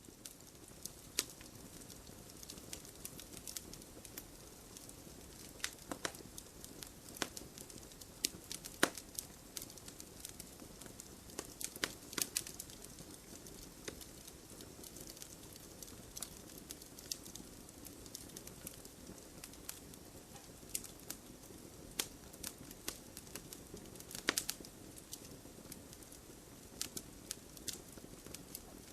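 Wood fire burning in a fireplace: irregular sharp crackles and pops over a steady soft hiss.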